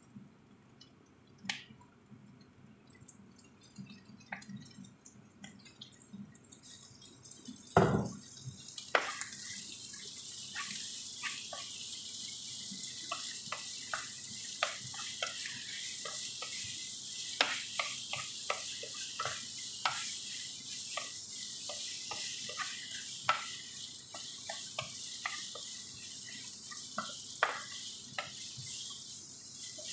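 Raw chicken pieces going into a hot frying pan with a thump about eight seconds in, then sizzling steadily while a wooden spatula clicks and scrapes as it stirs. Before that, only a few light clicks.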